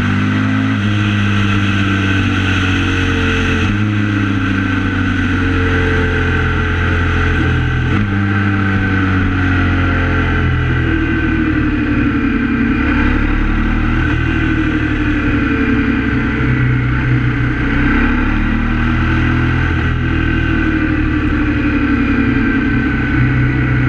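KTM 950 SMR's V-twin engine heard from on board while riding. Its pitch steps down and up several times in the first eight seconds as the bike slows from about 110 km/h, then rises and falls with the throttle through bends at about 50 km/h.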